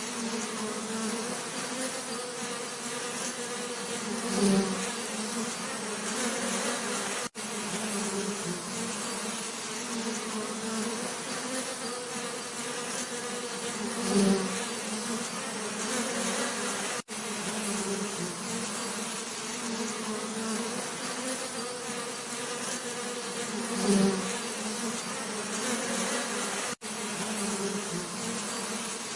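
Bees buzzing steadily, a continuous low droning hum, with a bee passing close and growing louder three times, about every ten seconds. The sound cuts out for an instant three times.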